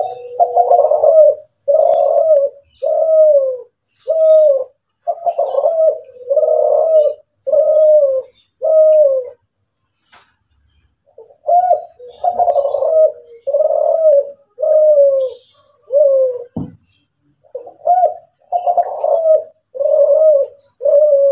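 A derkuku Kelantan (spotted dove) cooing (manggung): a steady run of deep, repeated coo notes at about one a second, broken by a pause of about two seconds midway. Faint high chirping sounds behind it.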